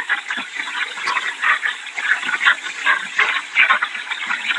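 Hurricane wind and rain rushing in uneven gusts, surging and easing every second or so.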